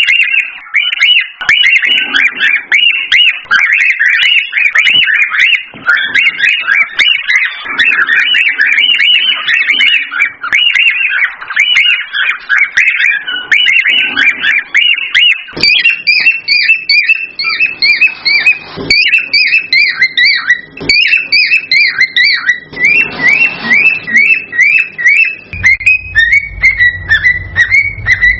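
Cockatiels giving excited whistled calls: a rapid, unbroken string of short chirps, several a second, the kind of male song played to bring pairs into breeding condition. About halfway through the calls turn into a cleaner, more even run of chirps, and a low hum joins near the end.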